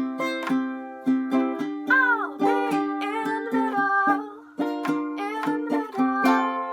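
Strummed string-instrument chords in a steady rhythm, with a brief sliding, wordless sung line about two seconds in.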